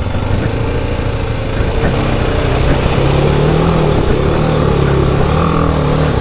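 Single-cylinder adventure motorcycle engine running under load, its pitch rising about two seconds in and then holding steady.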